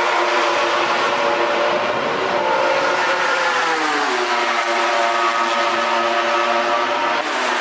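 MotoGP racing motorcycle engines, 1000 cc four-cylinders, running at high revs. The engine pitch falls about halfway through, then holds steady, and the sound changes abruptly near the end.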